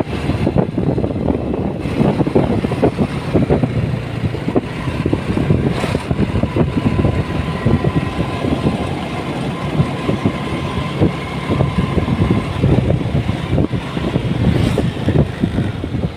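Motorcycle running on the move, its engine and travel noise heard from the bike itself, steady throughout. A faint steady high tone sits over it through the middle.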